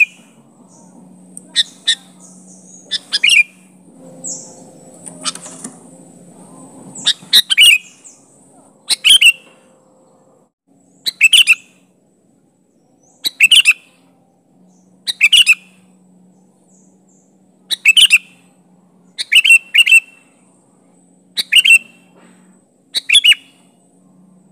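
Sooty-headed bulbul (kutilang) giving short, loud calls over and over, about one every two seconds: a male calling out to challenge a rival.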